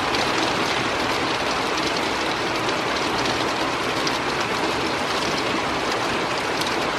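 Heavy thunderstorm rain pouring down steadily and densely, with scattered sharp ticks of hard drops striking, which the listener takes for hail.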